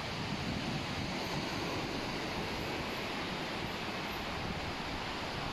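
Steady wash of sea waves on the beach, with wind on the microphone.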